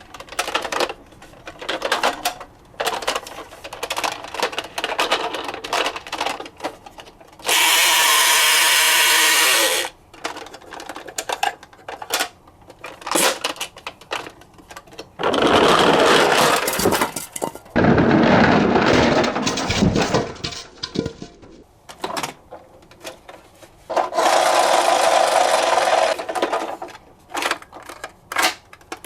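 Toy minicars clattering and rattling as they are handled and run down a slope: many quick clicks, broken four times by a loud whirring of about two seconds.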